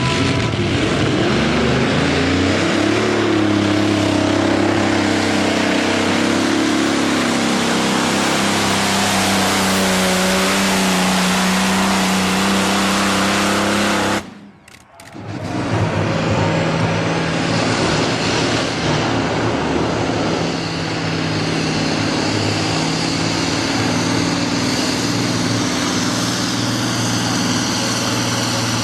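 Modified pulling tractor's engine running hard at high revs under load. Its pitch climbs over the first couple of seconds and then holds. About halfway through it drops out for a second before the engine sound carries on.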